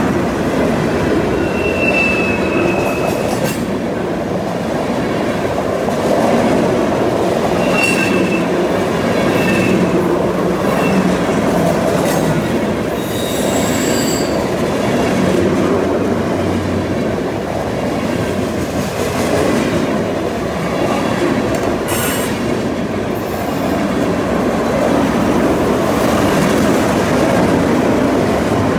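Freight train tank cars rolling steadily past, their steel wheels rumbling on the rails. Short high-pitched wheel squeals come about two seconds in, several times between eight and eleven seconds, and again around fourteen seconds, as the wheels grind through the curve.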